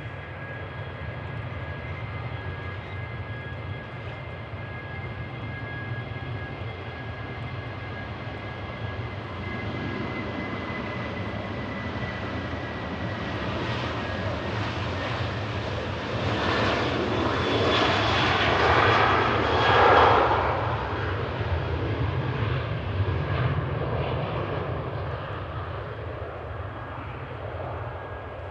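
Jet airliner passing, with engine noise and steady high whining tones building to a peak about two-thirds of the way through, then fading away.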